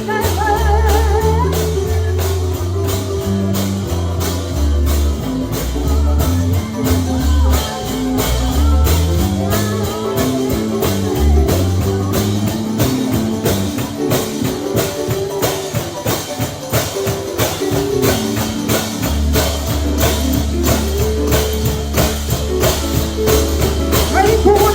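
Live gospel band playing an instrumental stretch with a moving bass line, tambourine and a steady beat of about two to three strokes a second, with singing only briefly at the start and coming back near the end.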